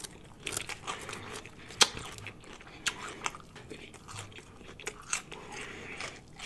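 Close-miked chewing of a mouthful of Caesar salad: crisp romaine lettuce crunching, with many short wet mouth clicks and one sharper crunch about two seconds in.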